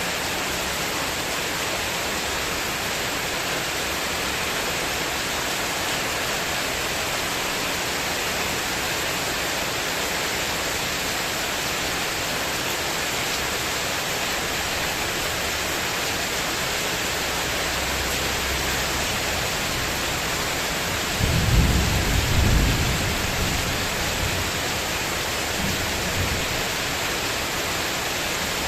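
Heavy storm rain falling steadily on a spandek metal terrace roof, an even hiss, with a low rumble of thunder swelling about 21 seconds in for a few seconds and a fainter one a few seconds later.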